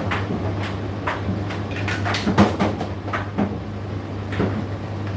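Indesit IDC8T3 condenser tumble dryer running: a steady motor hum with the drum turning and the load tumbling in irregular soft knocks and swishes, one louder thud about two seconds in.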